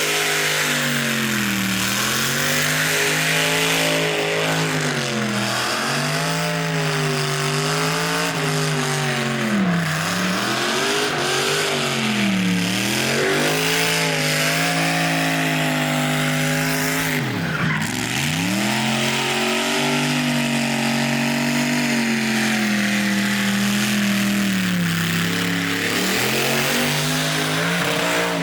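Supercharged LS V8 in an R34 Nissan Skyline held at high revs during a burnout, its pitch dipping and climbing back every couple of seconds, with one deep dip about two-thirds of the way through. Under it runs a steady hiss of spinning rear tyres.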